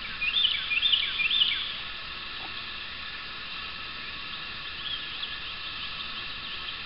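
A songbird singing: three quick, loud, repeated whistled phrases in the first second and a half, then softer phrases of the same kind further on, over a steady outdoor background hum.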